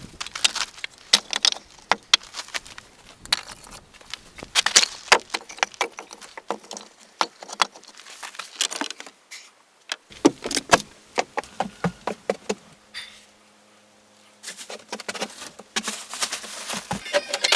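Fast, irregular knocks and clatter of work on the cabin, such as tools and wood being handled. There is a short lull about thirteen seconds in.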